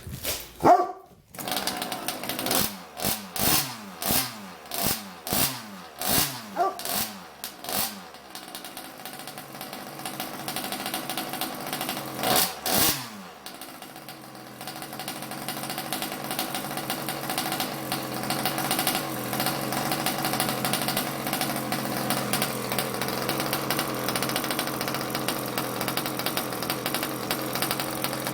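Small two-stroke engine of a Rovan R320 Baja RC buggy on its first start: about ten quick throttle blips, each rev falling away, then a longer rev, then it settles into a steady idle about halfway through.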